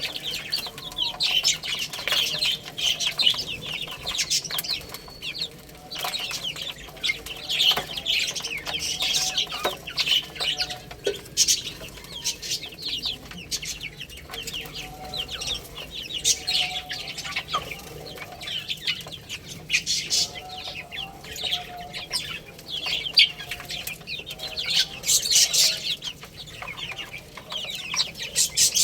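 A group of baby chicks peeping continuously, a dense stream of rapid, short, high chirps, with some fainter, lower calls underneath.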